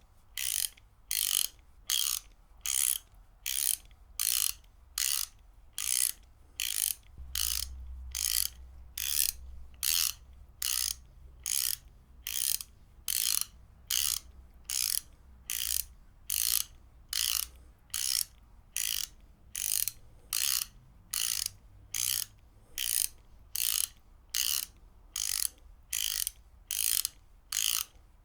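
Ratchet wrench being cranked back and forth, its pawl clicking over the teeth in short, evenly spaced bursts of about one and a half a second.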